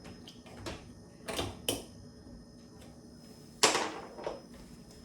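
A series of sharp clicks and knocks from hard objects being handled, about six in all, the loudest one about three and a half seconds in.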